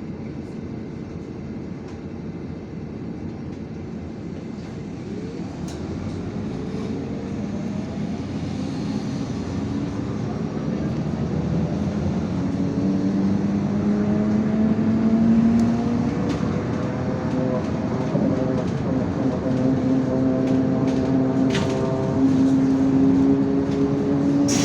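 IVECO Crossway 13M LE city bus pulling away and accelerating, its engine and drivetrain rising in pitch and getting louder. The pitch drops once, about two-thirds of the way through, as it shifts gear, then climbs again.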